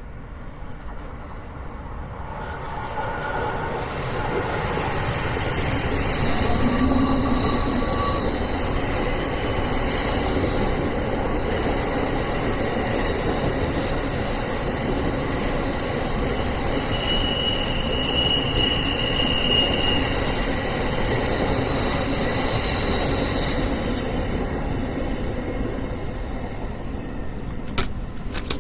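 Passenger train passing, its wheels squealing in several high, shifting tones over a steady rumble. It builds over the first few seconds and fades slowly near the end.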